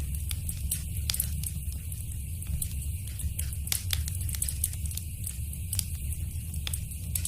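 Wood fire in a fireplace crackling, with frequent sharp irregular pops over a steady low rumble and a faint hiss.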